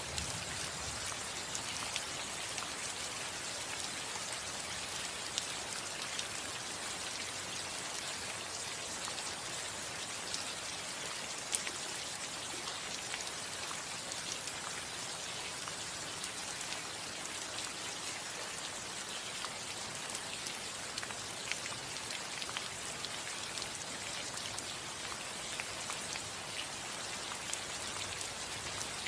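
Steady rain falling on a house roof, with many individual drops ticking sharply through an even hiss.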